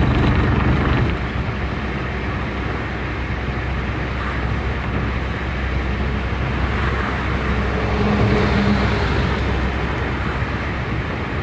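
Car on the move: steady engine and tyre road noise, a little louder for the first second and then settling.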